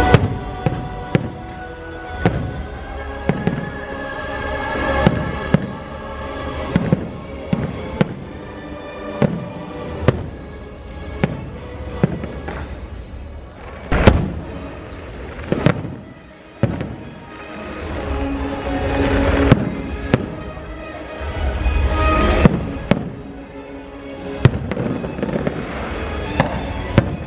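Aerial fireworks bursting in a rapid series of sharp bangs and crackles, loudest about halfway through, over the show's accompanying music.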